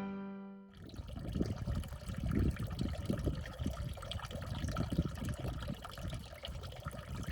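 Small stream of water pouring and splashing steadily into a water-filled tub, with an uneven trickling patter.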